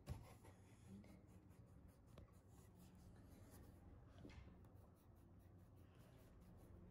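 Near silence: room tone with faint, irregular light scratching and rubbing, and a soft click right at the start.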